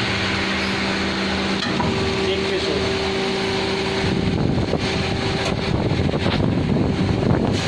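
A special-purpose turning machine for ceiling fan rotors running with a steady machine hum. About four seconds in, the sound turns rougher and grittier.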